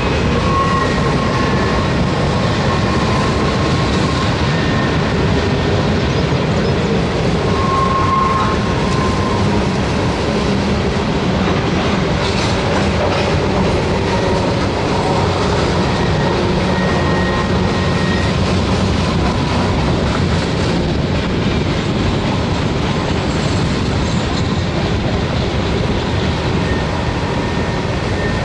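Freight cars of a long mixed freight train rolling past on a curve: a steady rumble of wheels on rail with clickety-clack over the joints. Faint high wheel squeals come and go as the wheels grind through the curve.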